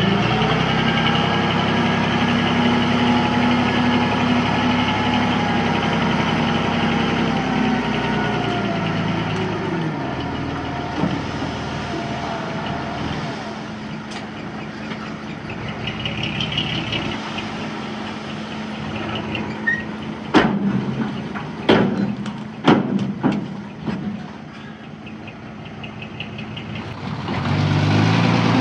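Diesel engine of heavy earthmoving machinery running hard, then slowing to a lower, quieter note about a third of the way in. Several sharp metallic clanks come about two-thirds of the way through, and the engine picks up again near the end.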